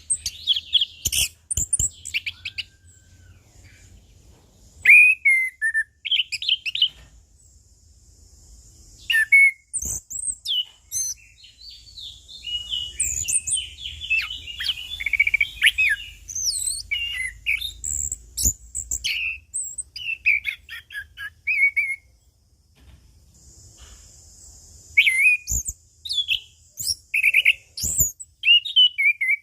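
Orange-headed thrush singing a varied song of short whistled phrases, slurred notes and quick trills in bursts with brief pauses, densest in the middle. A few sharp clicks fall between phrases.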